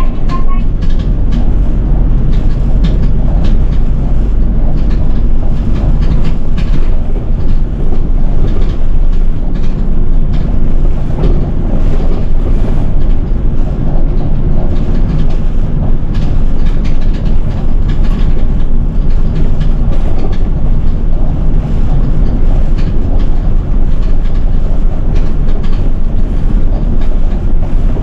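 A Nishitetsu city bus in motion, heard from inside: a steady low engine and road rumble with scattered clicks and rattles.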